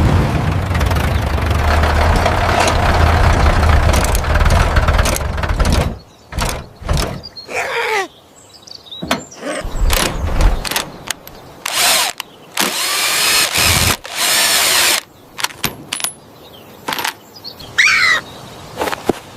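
Cartoon engine running steadily, cutting off about six seconds in; then a scatter of knocks and short noisy sound effects with a few gliding whistle-like tones.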